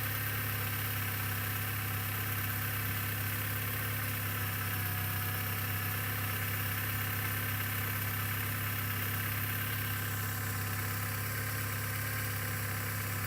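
A machine running steadily: an even low hum with a faint high whine above it.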